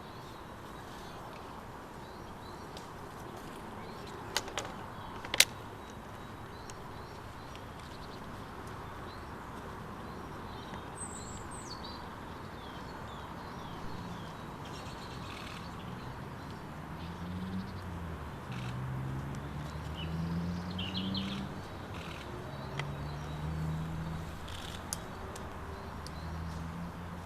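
Small birds chirping now and then over a steady outdoor background hiss. Two sharp clicks come about four and five seconds in, and in the second half a faint low hum joins, wavering up and down in pitch.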